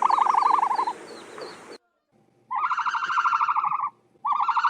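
A bird giving three fast, rattling trilled calls, each about a second and a half long with short gaps between, and faint high chirps over the first.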